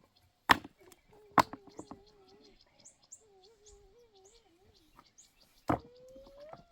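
Three sharp chopping or knocking blows, the first two about a second apart and the third near the end. Between them comes a wavering pitched call or hum, and small birds chirp faintly throughout.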